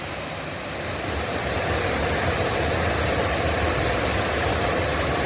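Waterfall rushing: a steady roar of falling water with a low rumble, growing a little louder about a second in.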